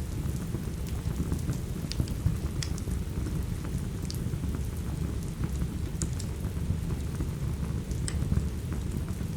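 Steady rain with a deep, even rumble, and the sharp pops and crackles of a wood fire burning in a fireplace every second or two.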